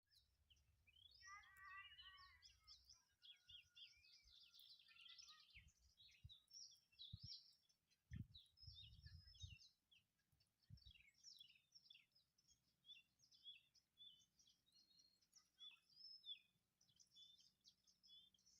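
Faint chorus of songbirds chirping and twittering, many short rapid calls overlapping throughout. A few low thumps and rumbles come in the first half.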